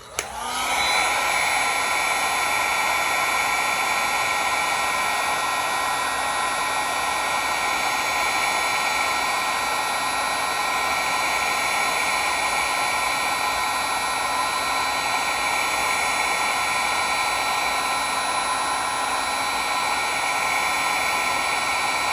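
Electric heat gun switched on and spinning up within about a second, then running steadily: a constant fan-motor whine over a rush of hot air. It is blowing on a 3D-printed plastic tool mount to soften its ledges.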